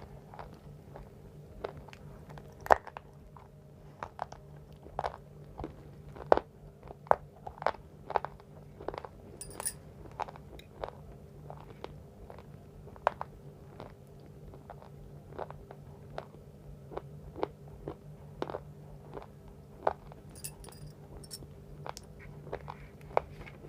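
Close-miked biting and chewing of dry, crunchy chalk: sharp crunches come irregularly, about one or two a second, over a faint steady hum.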